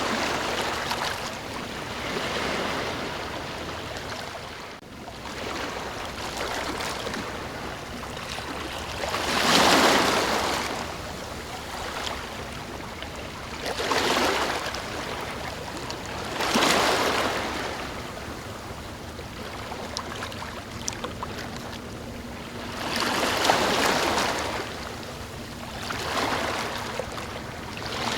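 Ocean waves washing in as surf, the rush swelling and falling back every few seconds, with the biggest surges about a third of the way in and again near the end.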